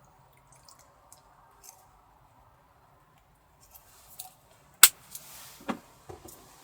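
Small objects being handled at close range: a few light ticks, then one sharp click a little before five seconds in, a short rustle, and another knock about a second later.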